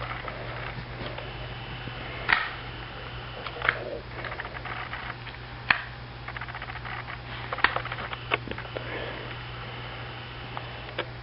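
Indoor room tone with a steady low hum and scattered short clicks and knocks, a few of them sharper and louder.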